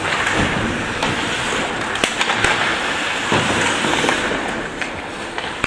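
Ice hockey game in a rink: skates scraping and carving on the ice, with a few sharp clacks of sticks and puck about two and three seconds in, over the hall's steady background noise.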